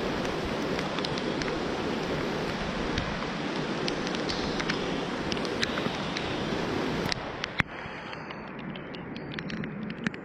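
Storm rain and wind making a steady rushing hiss, with scattered sharp ticks of drops. About seven seconds in the rush drops off suddenly and the ticking goes on over a quieter background.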